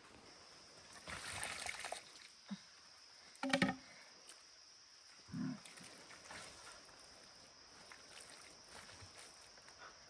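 Short animal calls: a brief pitched cry about three and a half seconds in and a lower call about two seconds later, over a steady high-pitched hum. A noisy rustling burst comes about a second in.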